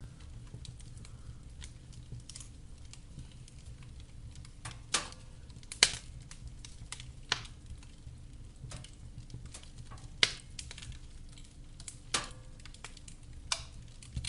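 Wood fire burning in a fireplace, crackling with irregular sharp pops and snaps, the loudest about six seconds in, over a low steady rumble.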